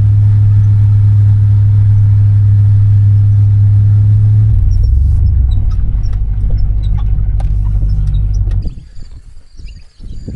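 A vehicle engine runs steadily with a deep hum, changes note about halfway, then cuts off abruptly near the end, leaving crickets chirping.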